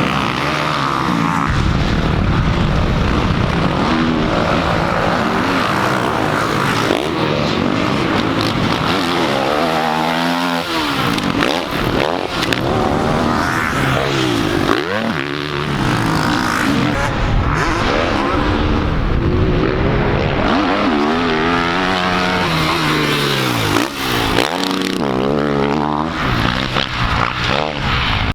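Dirt bike engine being ridden hard, revving up and falling back again and again as the rider accelerates and backs off, over steady rushing noise.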